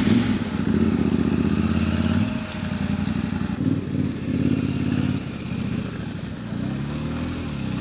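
Adventure motorcycle engine running under load on a dirt track, its pitch rising and falling as the throttle is worked, with a rev up and back down near the end.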